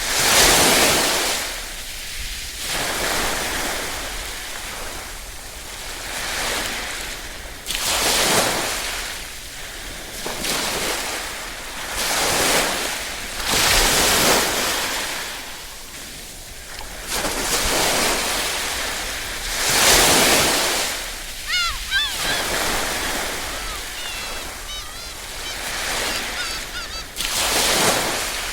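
Small waves washing onto a shore, the surf swelling and fading every few seconds. Birds call several times in the second half.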